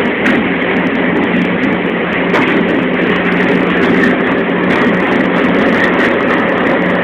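Alishan Forest Railway train running along the narrow-gauge track: a steady rumble with a low hum and occasional clicks from the wheels on the rails.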